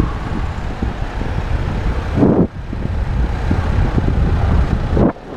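Wind buffeting the microphone of a moving bicycle, a steady rumble with road and traffic noise, and a brief swell of sound a little after two seconds.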